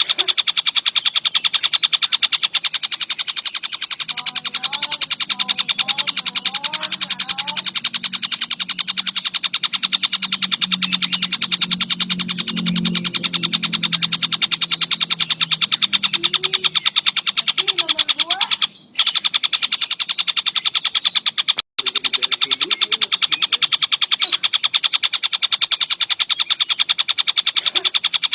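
Collared kingfisher (tengkek buto) calling without pause, a fast, unbroken train of sharp repeated notes. It drops out briefly twice about two-thirds of the way through.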